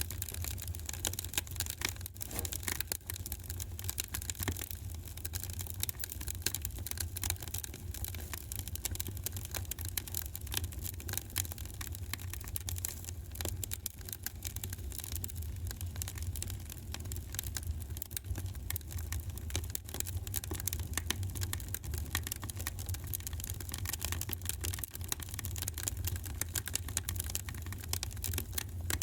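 Wood fire in a fireplace crackling, a constant irregular patter of small pops and snaps over a steady low rumble.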